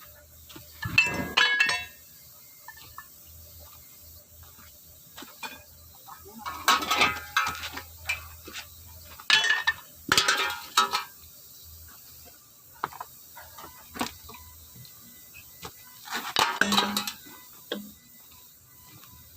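Metal tools clinking and clattering in four short bursts of handling, as the car is made ready to be jacked up.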